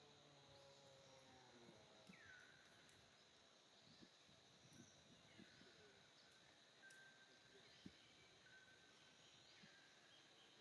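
Very faint outdoor nature ambience: a bird repeating a short call that falls in pitch every second or two, over a steady faint high tone, with a few soft clicks.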